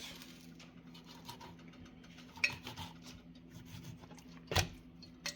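Faint kitchen clatter of dishes and utensils: a few light clinks about two and a half seconds in and a sharper knock near the end, over a steady low hum.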